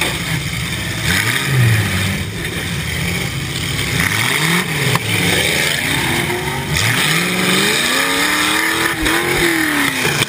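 Demolition derby car's engine revving hard, heard from inside the car, its pitch rising and falling several times as the throttle is pushed and let off.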